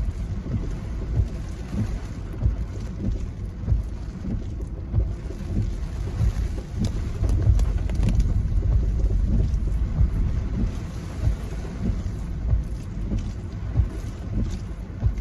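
Gusty typhoon wind buffeting the microphone: a continuous low rumble with frequent sudden gusts.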